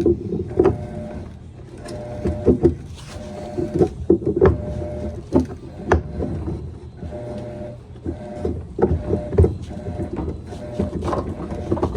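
Small electric power driver running in short bursts of about a second, several times over, with sharp metal clicks and knocks between the bursts.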